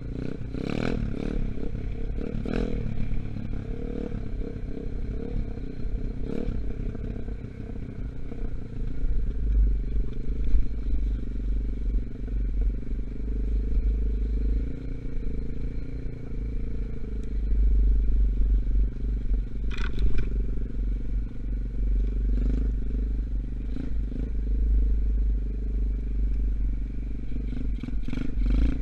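125cc dirt bike engine running steadily under way; the bike is new and still being run in. There is a strong low rumble underneath, and a sharp clack about twenty seconds in.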